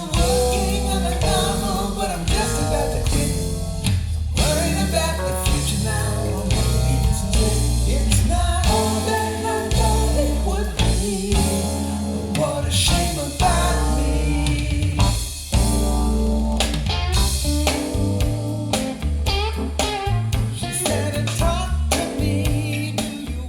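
A song with vocals, guitar and drums played through Klipsch RF-7 III floorstanding speakers driven by a Parasound Zonemaster 2350 amplifier, with a heavy bass line; the music fades out near the end.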